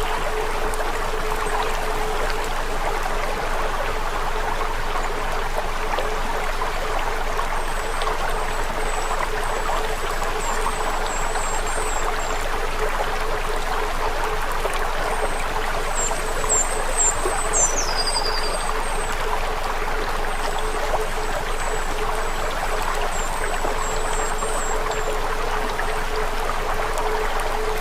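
Steady rushing sound like running water, under a faint steady hum. High, short chirps come in three spells, the longest a little past the middle.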